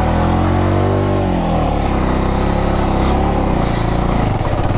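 Bajaj Avenger motorcycle's single-cylinder engine revving hard under load on a steep, muddy climb. The pitch rises and falls as the throttle is worked and the rear tyre struggles for grip.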